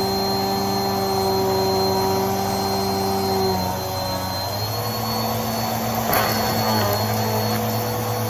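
Vacuum cleaner running steadily with a motor whine that shifts in pitch a few seconds in, and a brief rattle about six seconds in as debris is sucked up.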